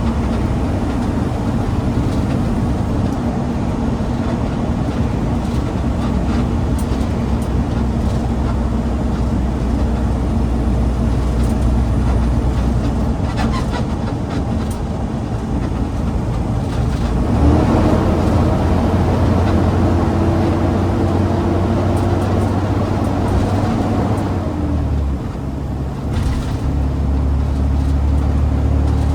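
Garbage truck's diesel engine running as the truck drives, with a steady low drone; the engine note rises about two-thirds of the way through and drops briefly near the end before picking up again, as with gear changes.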